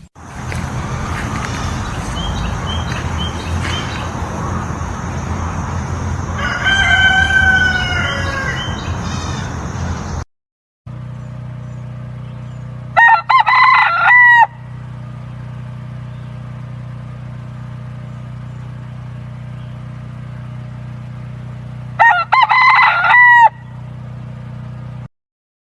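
Rooster crowing: one crow about seven seconds in over a steady noisy background, then after a sudden break two loud crows about nine seconds apart over a steady low hum.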